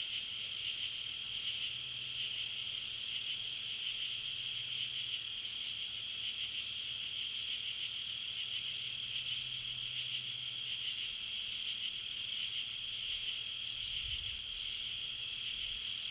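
Steady, dense chorus of night-singing insects such as crickets, a continuous high shimmering trill, with a faint low drone underneath that swells and fades.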